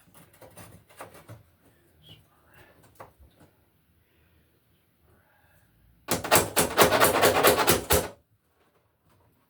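Light clicks of parts being handled, then, about six seconds in, two seconds of loud, rapid rattling, as surface raceway (wire mold) is worked onto a new electrical box.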